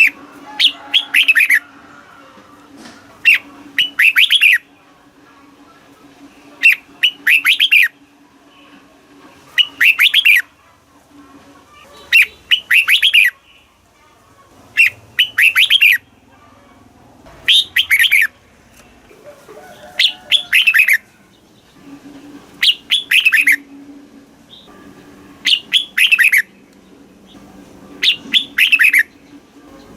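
Red-whiskered bulbul singing: short bright phrases of several quick whistled notes, repeated about every three seconds.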